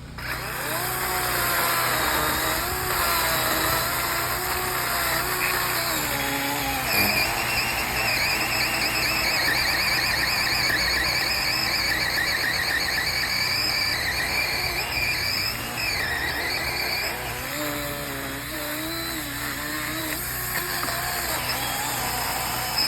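Gas chainsaw running continuously, its pitch wavering up and down as the load changes, with a higher whine strongest through the middle.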